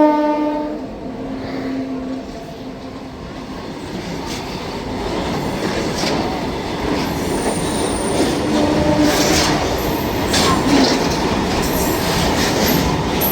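EMU local train passing on the rails: a dense wheel rumble that builds over the first several seconds, with clacks over the rail joints and brief high-pitched wheel squeals. Its horn ends within the first second.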